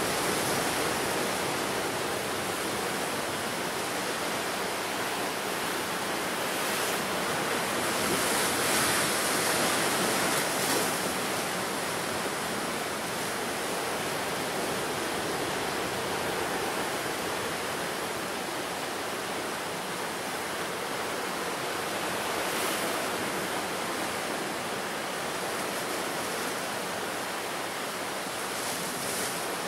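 Ocean surf breaking and washing ashore, a continuous rush of waves that swells louder about eight to eleven seconds in and again briefly past twenty seconds.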